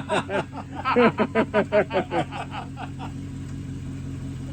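2006 Dodge Charger R/T Daytona's 5.7-litre HEMI V8 idling steadily. Someone laughs over it for the first couple of seconds, then only the idle is heard.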